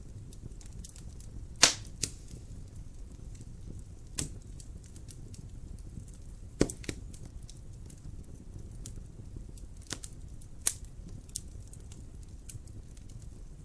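Wood fire crackling in a fireplace: a low steady rumble of flames with scattered sharp pops and snaps. The loudest pops come about a second and a half in, again around six and a half seconds, and near ten seconds.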